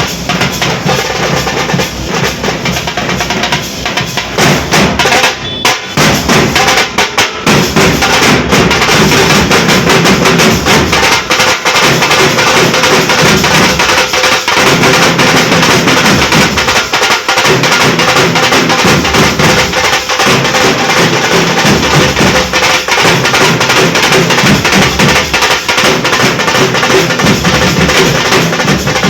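Nashik dhol ensemble drumming: big barrel dhol drums beaten together in a loud, dense rhythm. It breaks off briefly a few times about six seconds in, then comes back louder and unbroken.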